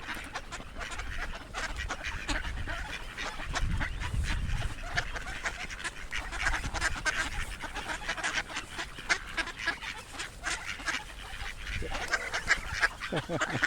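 A flock of ducks quacking and calling together, many short overlapping calls without a break.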